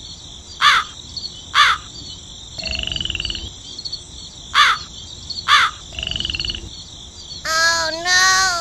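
Animal calls over a steady high chorus of insects: four short caws like a crow's, two rattling croaks like a frog's, and two longer drawn-out calls near the end.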